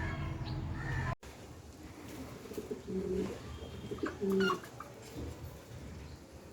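Domestic pigeons cooing: two short low coos about a second apart. They follow a second of louder, steady background sound that cuts off abruptly.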